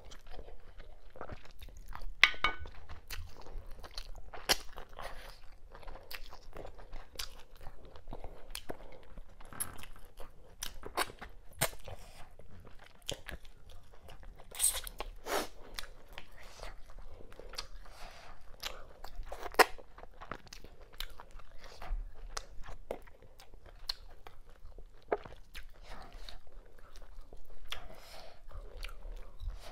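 Close-miked eating: steady chewing with many irregular sharp crunches and clicks as a person eats cow skin, mackerel and fufu in okra-ogbono soup by hand.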